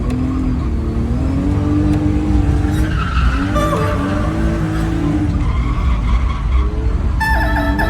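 Drift car engine revving hard, its pitch rising and falling as the car slides, over loud tyre skidding. Music starts near the end.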